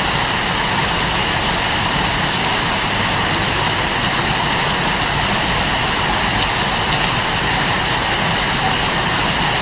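Rain falling steadily, a dense even hiss with faint drop ticks.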